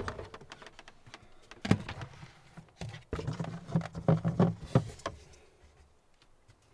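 Scattered clicks and knocks of objects being handled in a small room, with a low hum from about three to five seconds in.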